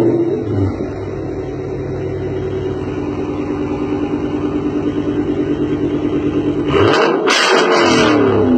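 A 2013 Dodge Challenger R/T's 5.7 L Hemi V8 breathing through Hellcat headers and a Hellcat catback with the mid muffler deleted. It comes down from a loud start-up into a steady, rumbling idle, is revved once about seven seconds in, and drops back to idle.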